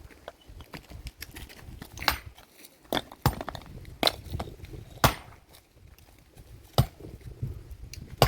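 A series of about seven sharp knocks at irregular intervals, with softer scraping and shuffling noises between them.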